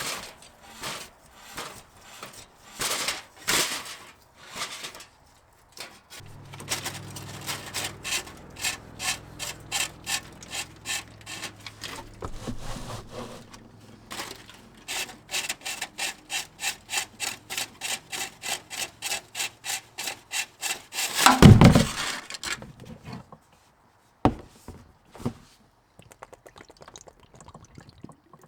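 Hand tool working on the car's underside during an oil change, most like a ratchet wrench clicking in repeated quick strokes, about two to three a second. A loud clatter comes about three quarters of the way through.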